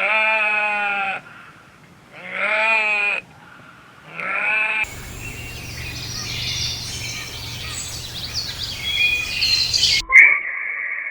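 A sheep bleating three times, each bleat wavering in pitch, the last one short. Then many small birds chirp over a low hum. Near the end a steady high tone starts abruptly.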